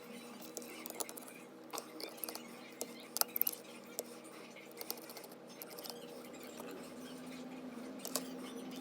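Small sharp clicks and light taps of tools and parts being handled during an iPhone 7 charging-port repair, irregular and scattered, over a steady low hum.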